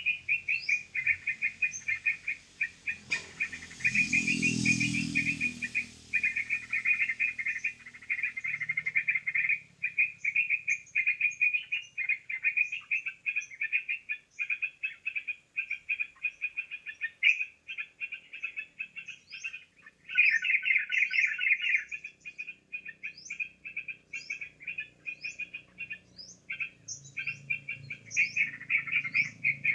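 Yellow-vented bulbul (trucukan) lure recording: fast, continuous bubbly chattering calls with short high upward-swept notes among them, in a dense flock-like stream. A brief rustling disturbance comes about four seconds in.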